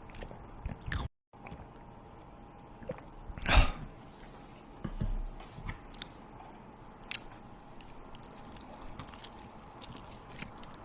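Close-up eating sounds: chewing and biting into food, with a louder bite about three and a half seconds in. The sound cuts out briefly about a second in.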